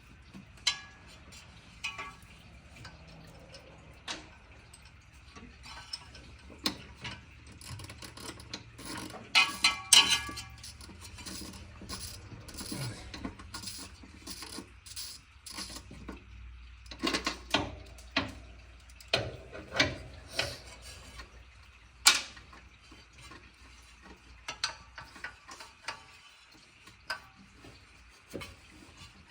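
Hand ratchet clicking in short runs while bolts are worked loose, mixed with metal sockets and tools clinking and knocking against each other, with one sharper knock a little past two thirds of the way through.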